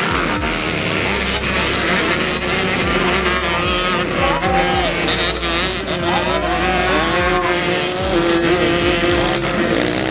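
Dirt-track racing motorcycle engines running and revving, their pitch rising and falling with the throttle, several at once.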